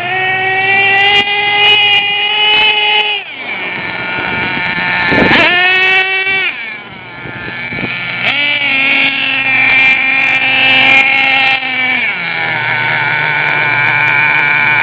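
Small nitro glow engine of a radio-controlled truck running at high revs with a high, steady whine. The pitch drops as the throttle is let off after about three seconds, then jumps in a quick blip of throttle around the middle. It holds high again for a few seconds and falls back to a lower steady pitch near the end.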